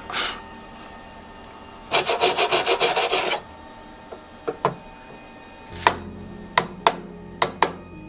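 MIG welder tack-welding a sheet-metal patch into a car's door post: one crackling, buzzing burst of about a second and a half, then a string of short sharp pops from brief tacks.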